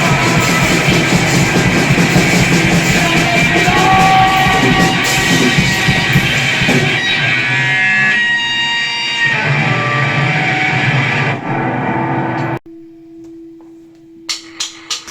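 Loud distorted electric guitar and drum kit playing grindcore/noise rock. About twelve and a half seconds in the music cuts off abruptly, leaving a quiet steady tone and a few short sharp hits.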